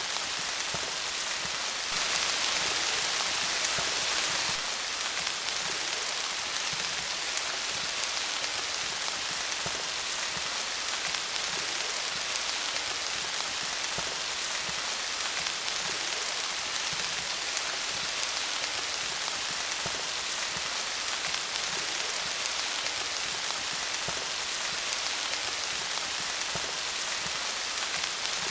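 Steady rain falling on leaves: a dense, even patter of drops. It briefly grows heavier about two seconds in, for a couple of seconds, then settles back.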